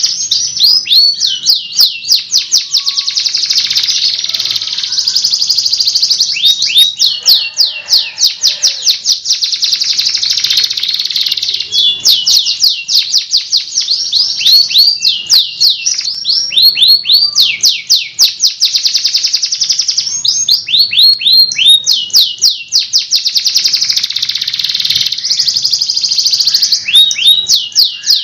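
Domestic canary singing non-stop: long, loud rolls and trills of rapidly repeated chirping notes that change pattern every second or two.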